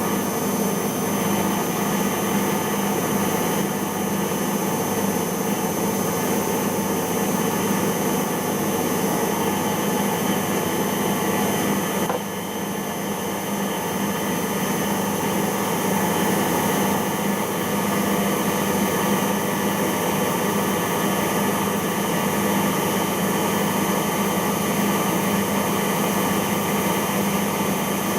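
Siemens iQ washing machine spinning its drum at speed during the intermediate spin of a cotton wash, a steady motor whine and hum. The level dips briefly about twelve seconds in.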